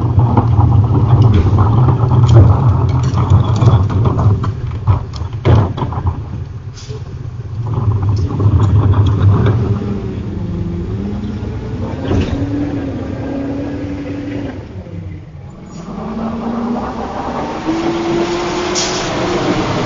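Peterbilt rear-loader garbage truck at work. For the first half its diesel engine rumbles under a run of clanks and knocks. In the second half the engine revs up twice in rising pitch, with a short drop between.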